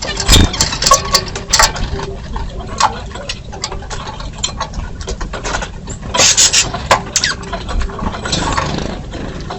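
Birds at a feeder: irregular sharp taps, clicks and scuffles as they peck and move about on it, with denser clusters about a second in and again past the middle.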